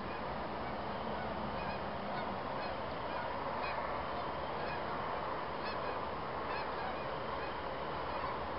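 Faint short bird calls, repeated irregularly every half second to a second or so, over a steady background hiss.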